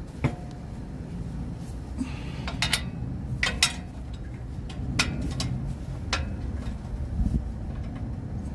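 Scattered sharp clicks and clinks, about half a dozen at irregular intervals, from bolts and hand tools being picked up and handled. A steady low rumble runs underneath.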